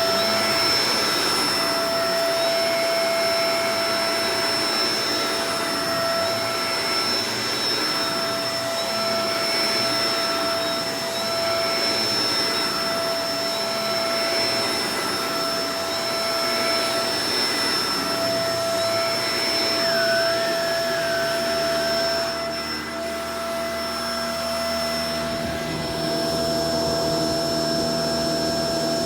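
Shark Professional Powered Lift-Away DLX upright vacuum cleaner running steadily with a constant whining hum. About three-quarters of the way through it dips briefly, then its tone shifts lower.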